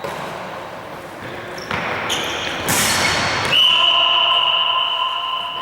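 In a sports hall, a rush of noise swells and peaks about three seconds in. Then a loud, steady, high-pitched signal tone starts and is held for about two seconds.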